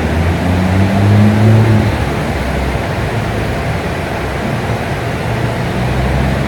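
BMW M4's straight-six with a big single Garrett turbo running under load. The engine note swells to a peak about a second and a half in, then eases back to a steady drone.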